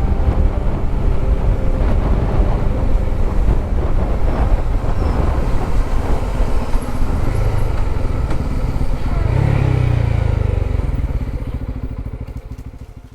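Motorcycle engine running under way with road and wind noise, swelling louder about ten seconds in, then fading out near the end.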